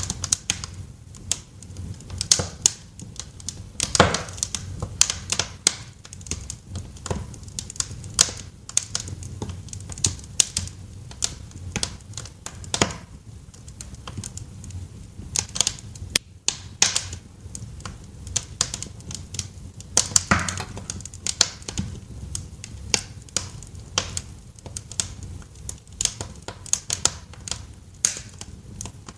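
Wood fire crackling in a fireplace: irregular sharp pops and snaps, a few louder ones, over a low steady rumble of the burning.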